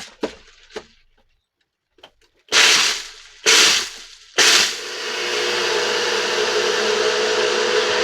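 NutriBullet blender crushing ice with rum, cream and seltzer: a few light clicks, then three short pulses about a second apart, then the motor runs steadily.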